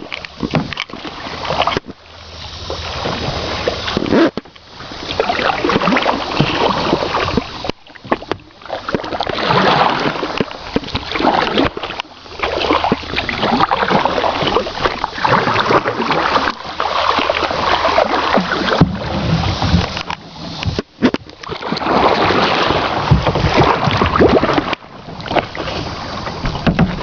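Water splashing and rushing around a paddled kayak, loud and uneven, in swells of a few seconds with several brief drop-outs.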